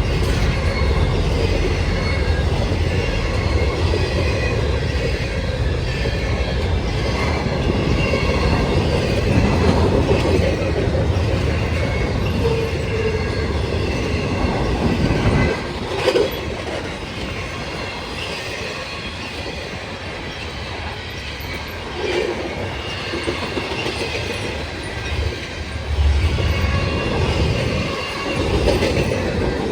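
Freight train cars rolling past at close range: a steady rumble of wheels on rail with faint high-pitched wheel squeal and some clatter over rail joints.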